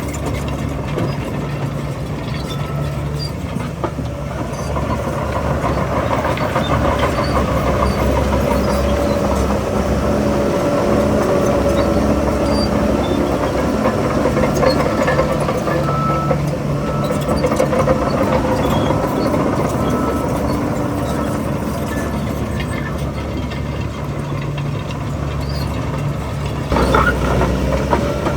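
Heavy diesel engine of earthmoving machinery running steadily, its pitch shifting a little with the load, with a louder surge about 27 seconds in.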